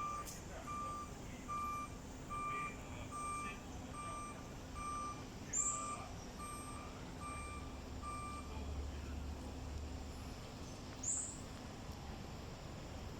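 A vehicle's reversing alarm beeping evenly, about once every 0.8 seconds, and stopping about seven and a half seconds in. Two short, high-pitched bird calls stand out, about five and a half and eleven seconds in, over a low hum.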